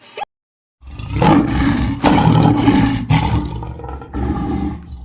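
A big cat roaring: a loud, rough roar that starts about a second in and comes in several pushes, with a quieter one near the end.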